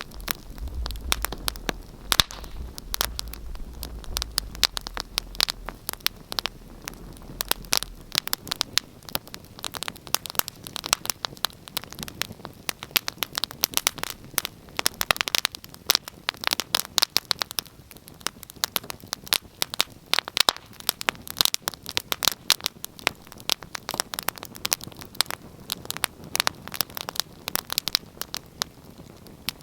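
Wood fire crackling in a fireplace: a steady stream of irregular pops and snaps. A low hum runs beneath it and stops about eight seconds in.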